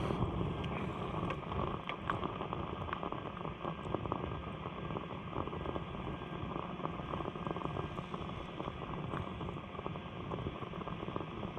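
Wood fire burning: a steady low rush with small crackles and pops scattered through it.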